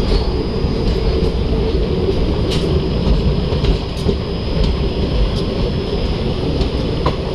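Indian Railways passenger train running along the track, heard from on board: a steady rumble of wheels and coach with a few faint clicks from the rails.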